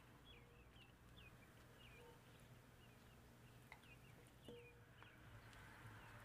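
Faint birds chirping, a run of quick short chirps, over a low steady hum, with a couple of soft clicks in the middle.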